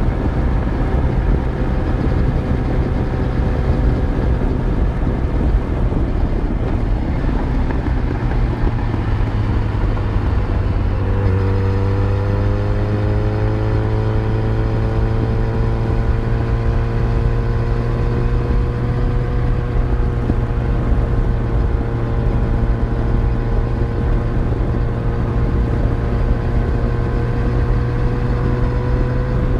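Yamaha FZ1's inline-four engine running on the move over a steady rushing noise. About a third of the way in, the engine note becomes clearer and climbs gradually for several seconds, then holds steady.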